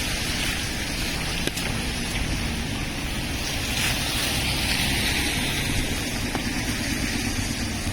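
Road traffic noise: a steady hiss of tyres and engines with a low rumble underneath, which grows slightly near the end.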